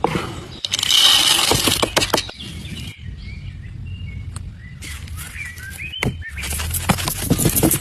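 Birds chirping in short, rising and falling calls, between two loud stretches of hissing, rustling noise about a second in and again near the end.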